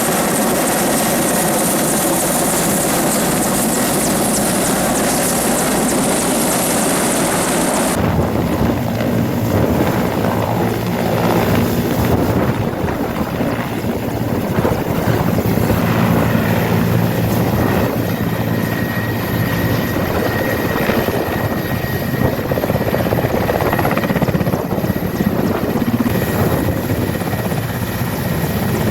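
Helicopter running steadily, rotor and engine noise throughout. About eight seconds in the sound changes abruptly: the high hiss drops away and the low rotor beat comes forward.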